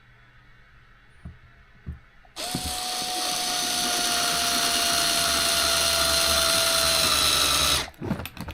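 Small electric screwdriver running for about five seconds as it drives a screw, its whine sinking slightly in pitch, then cutting off sharply; a couple of light clicks before it starts and a few clicks after it stops.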